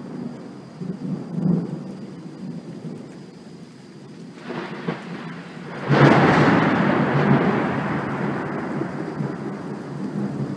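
Thunder: a low rolling rumble, then a loud crack about six seconds in that rolls on and slowly fades. Rain falls throughout.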